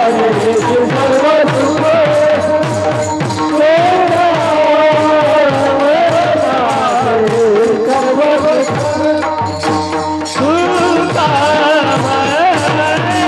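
Varkari kirtan bhajan music: a wavering melody over steady, quick drum strokes and jingling hand cymbals.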